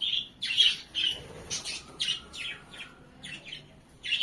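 Caged pet birds, cockatiels among them, chirping in many short, sharp calls in quick clusters.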